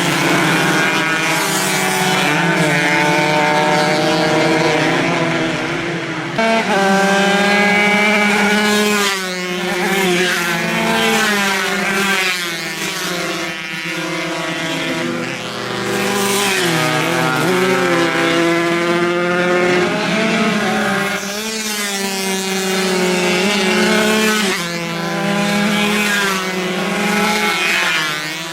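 Several 140 cc two-stroke racing motorcycles running hard together, their overlapping engine notes rising and falling through the gears. Bikes sweep past close by one after another every few seconds.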